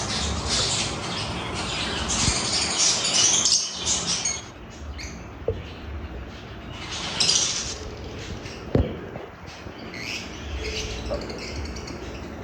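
Lovebirds calling in high-pitched chattering bursts, busiest for the first four seconds, again a little past halfway and near the end. A single sharp knock comes about two-thirds of the way through.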